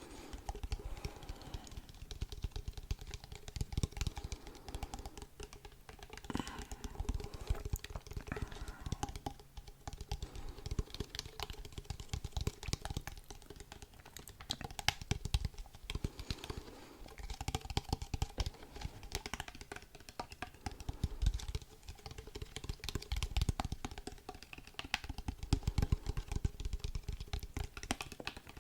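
Close-miked ASMR tapping: a fast, irregular stream of small clicks, like fingers typing on a keyboard.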